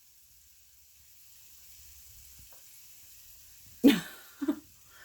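Faint sizzling hiss, typical of food frying in a pan, swelling slightly over a few seconds. It is cut into near the end by two short bursts of a person's voice.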